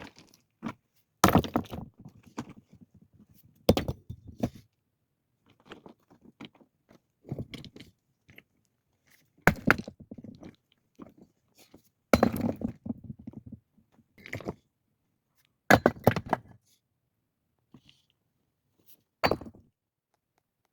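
Stones being set down and shifted against other stones: six heavy knocks spaced a few seconds apart, several followed by a short grinding scrape.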